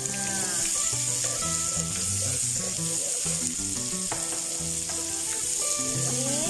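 Garlic and sliced red onion frying in hot oil in a pan, a steady sizzle, stirred with a wooden spatula, over soft background music.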